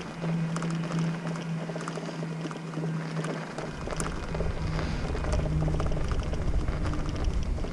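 Riding a bicycle on a snowy street: a steady hum with scattered small clicks. Wind buffets the microphone from about three and a half seconds in.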